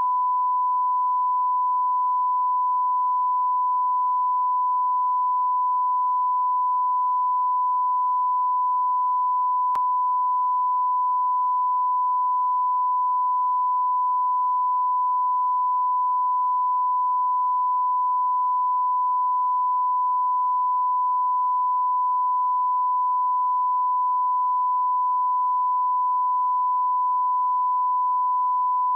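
A steady electronic sine tone, one unbroken high-pitched note held at constant pitch and loudness.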